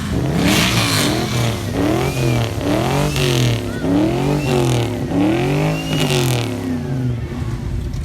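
Car engine being revved over and over, the pitch rising and falling in quick blips about once a second.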